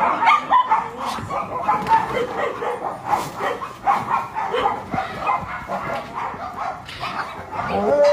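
Shelter dogs barking and yipping, short calls overlapping one another without a break, with one longer arched yelp near the end.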